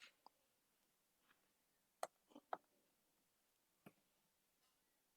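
Near silence broken by a few faint, sharp clicks at irregular intervals, a pair close together about two and a half seconds in.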